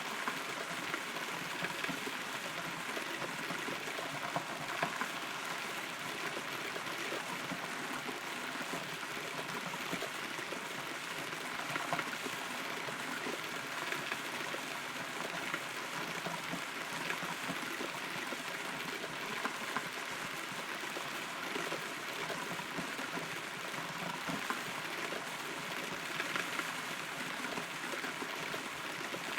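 Rain falling, heard from inside a hollow rotten tree: a steady patter with scattered louder drips.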